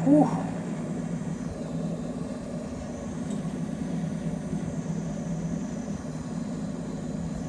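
Coleman Evcon mobile-home gas furnace running steadily: the low rumble of the lit burners and the draft inducer fan, fired by a newly installed igniter. A faint steady hum fades out about five seconds in.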